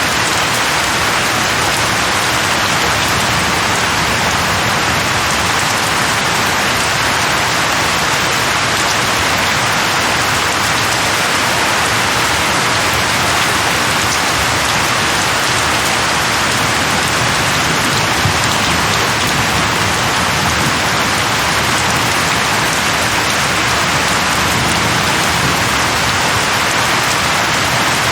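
Steady heavy rain falling on a surface, an even hiss with some individual drop ticks.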